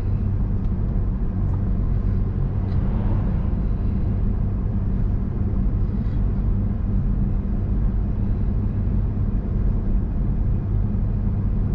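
Car cabin noise while driving at a steady speed: a constant low drone from the engine and tyres, with a haze of road noise over it.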